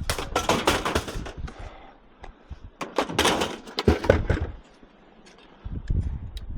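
Scrap metal clattering and crashing as it is loaded onto a truck: two loud bursts of clatter, then a few duller thuds near the end.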